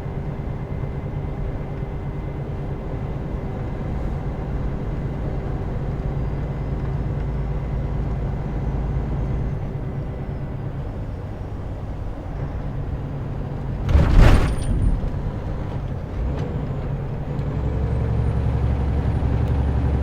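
Semi-truck diesel engine running steadily while driving, heard from the cab, with one short loud hiss of released air from the truck's air brake system about two-thirds of the way through. Near the end the engine gets louder.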